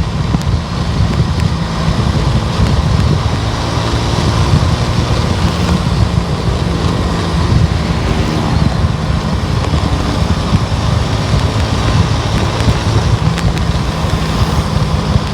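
Car driving along a road: steady low engine hum under tyre and wind noise.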